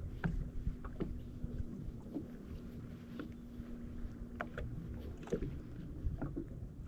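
Water lapping and slapping against the hull of a jet ski sitting on the water, in scattered short splashes over a low rumble, with a steady low hum underneath.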